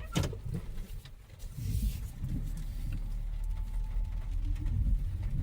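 Low, steady rumble of a car heard from inside the cabin, with a sharp click at the start and a brief hiss about two seconds in.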